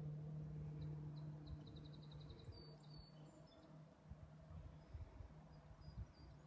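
Faint outdoor quiet with a steady low hum that weakens after the first two seconds. A small bird gives a quick high trill of about eight notes about a second in, then a few short high chirps.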